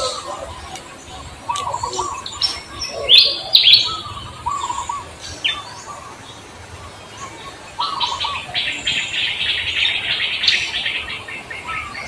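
Birds chirping and calling, scattered short chirps with a dense, rapid run of chirps starting about eight seconds in and lasting a few seconds.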